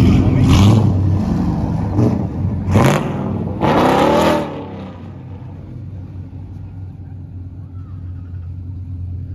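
A vehicle engine revving in a few sharp bursts. The longest, near the middle, rises in pitch. After it the sound falls to a quieter, steady low engine running.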